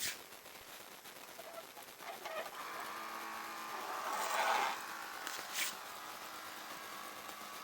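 Small electric motor of a homemade toy robot truck starting up about two seconds in and then whirring steadily. There is a click at the start, a louder scraping surge around the middle, and another click a little later.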